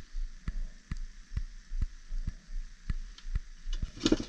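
Regular soft thuds, about two a second, with a brief rustle near the end.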